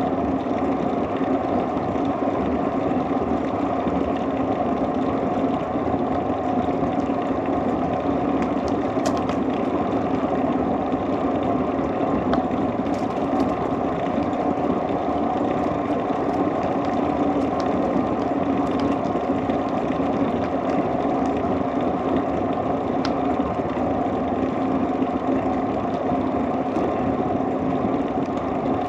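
Steady riding noise of a bicycle ride: wind and tyres rolling on the road, a constant even rumble with a low hum and no breaks.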